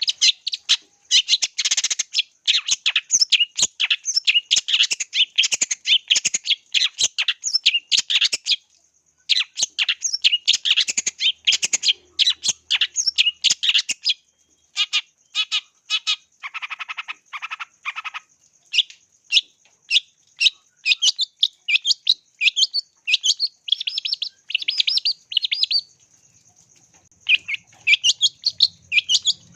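Long-tailed shrike (cendet) singing in long, rapid runs of sharp chirps, broken by a few short pauses, with a lower, harsher stretch about halfway through. A steady high-pitched tone sits underneath.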